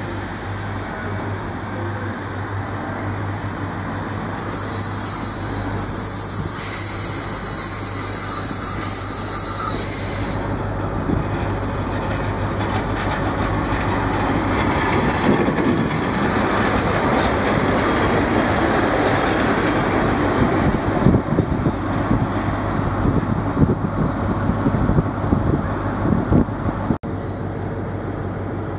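Diesel multiple units at a station over a steady low engine hum. From about 4 to 10 s there is a high-pitched wheel squeal. From about 14 s a Pacer railbus passes close by, its wheels clattering over the rail joints and growing louder until the sound cuts off near the end.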